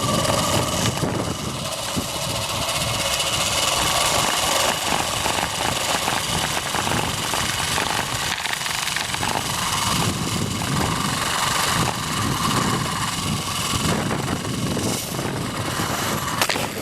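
Zipline trolley pulleys running fast along the steel cable: a steady rumbling whir with a faint whine at times.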